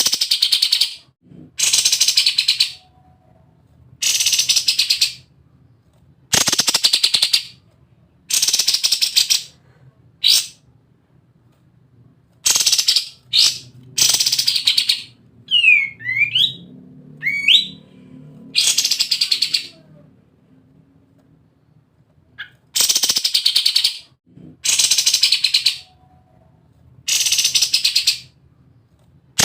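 A kapas tembak songbird singing in its 'ngebren' style: loud, rapid, rattling bursts, each about a second long with short pauses between. Near the middle come two short sweeping whistled notes.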